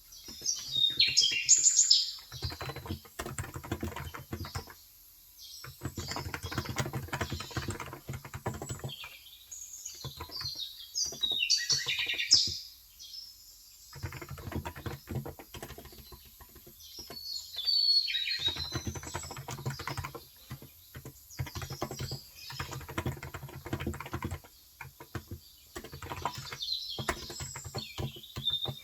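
Typing in runs on a COX Endeavour electrostatic-capacitive (no-contact) 35 g tenkeyless keyboard: quick, soft key strokes broken by short pauses. Birds chirp in several bursts over it, the loudest near the start and around the middle.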